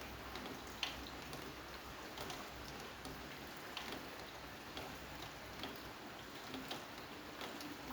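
Steady rain hiss with scattered drops ticking irregularly on a hard surface.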